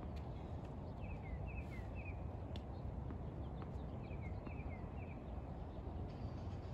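A small bird chirps in two short bursts of three or four quick falling notes, over a steady low outdoor rumble. A single faint knock comes partway through.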